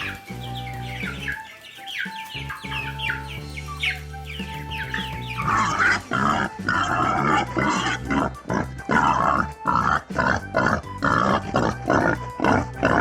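Small birds chirping in quick falling notes, then from about five seconds in pigs grunting and squealing in rapid, repeated calls, over background music.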